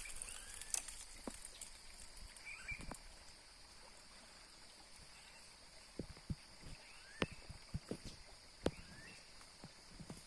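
A small bird giving short rising chirps every second or two, over a steady high-pitched hum. Scattered sharp clicks and knocks in the second half are the loudest sounds.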